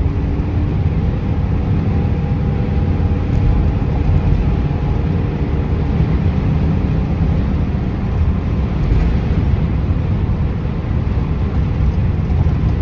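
Steady road and engine rumble heard from inside a moving vehicle's cab, with no marked change in pitch or level.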